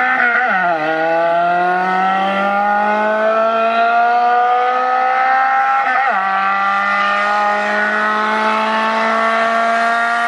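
Car engine accelerating hard under load, its pitch climbing steadily and dropping sharply at two gear upshifts, about half a second in and about six seconds in.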